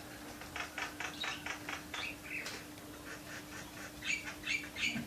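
Yorkshire cross canary chirping: a quick run of short, high notes at about five a second, then a pause and a second cluster of chirps near the end, over a steady low hum.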